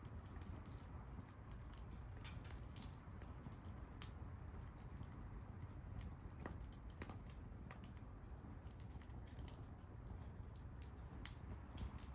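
Wood bonfire crackling: irregular sharp snaps and pops of burning wood over a low steady rumble.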